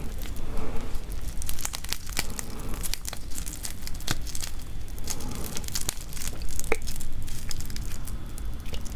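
Close-miked cracking and crunching of raw marinated crab shells as they are bitten and pulled apart: a dense, irregular run of sharp cracks and crackles.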